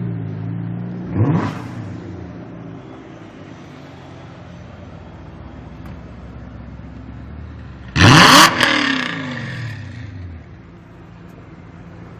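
Tuned BMW 1M Coupé's twin-turbo straight-six, decatted with a lightweight exhaust. A quick rev blip comes about a second in. About eight seconds in there is a louder rev with a sharp bang from the exhaust, and the engine note falls away over the next two seconds.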